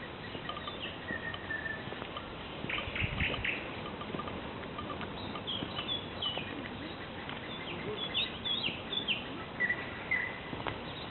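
Several small songbirds singing and calling, with short chirps and quick runs of notes over a steady hiss; the calls come most thickly from about halfway on.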